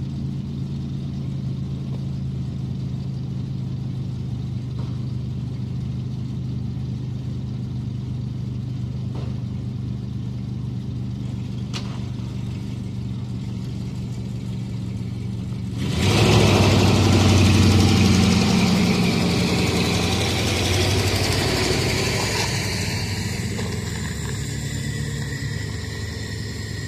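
A car engine idling steadily. About two-thirds of the way through it suddenly gets louder as the engine revs or the vehicle pulls away, then eases back down over several seconds.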